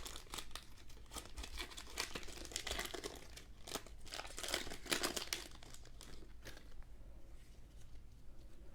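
A pack of basketball trading cards being torn open by hand, its wrapper crinkling and tearing in irregular crackles.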